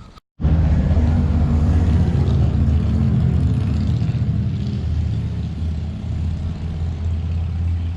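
Car driving: a steady low rumble of engine and road noise that starts suddenly about half a second in.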